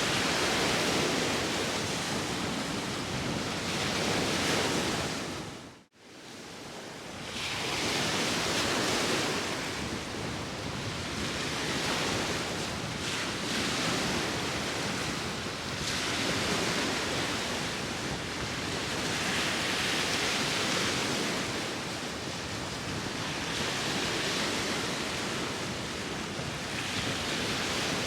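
Sea waves washing in and out, swelling about every three to four seconds, with wind blowing. About six seconds in, the sound dips almost to silence for a moment, then returns.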